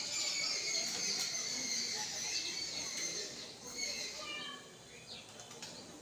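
Birds chirping and chattering in a dense, high twittering that fades about four seconds in, with a short call just after. Wings flap as one of the two common mynas feeding at the table flies off.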